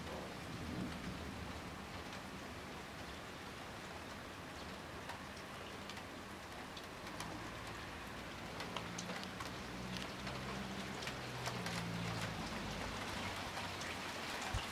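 Heavy rain pouring steadily: a dense hiss of falling drops with sharp individual drop hits, growing slightly louder in the second half.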